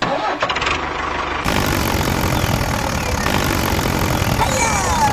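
A small engine running steadily. It starts abruptly, and its sound fills out about a second and a half in.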